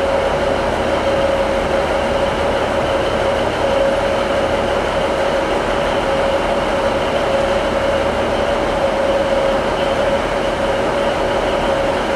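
Trains standing at station platforms, sending out a steady mechanical hum with a constant whine running through it.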